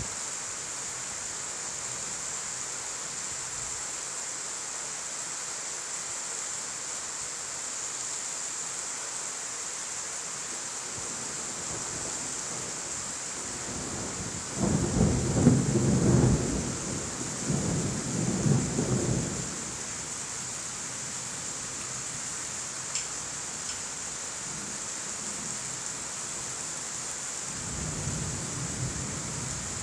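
Steady rain hissing, with a roll of thunder rumbling in about halfway through and lasting some five seconds, and a fainter rumble of thunder near the end.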